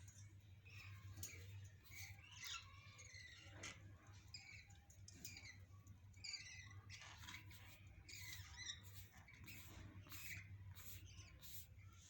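Budgerigars chirping and chattering faintly, many short high calls overlapping one another, over a low steady hum.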